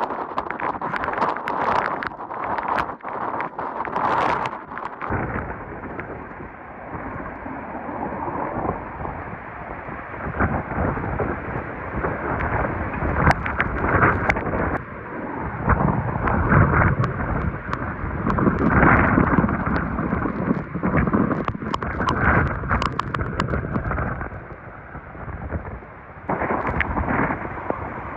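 Hurricane Milton's wind gusting hard against the microphone with rain, rising and falling in surges and peppered with sharp ticks.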